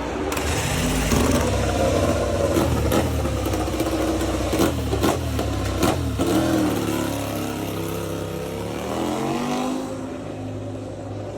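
Racing motorcycle engines running at high revs, their pitch rising and falling through the gears, with a few sharp clicks in the middle.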